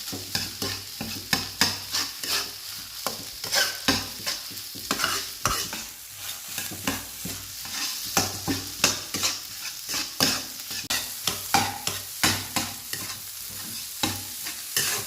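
Fried rice with sweet soy sauce sizzling in a frying pan while a scoop stirs and scrapes it, with frequent quick clicks of the scoop against the pan.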